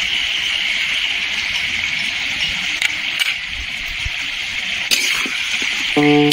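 Chicken pieces sizzling in oil in a metal kadai, a steady hiss, with a few light metal clicks against the pan. Background music comes in near the end.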